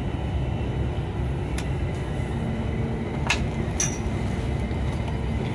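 Steady rumble of a moving double-decker InterCity train, heard from inside the carriage. A few light clicks come through, one near the middle and two close together a little later.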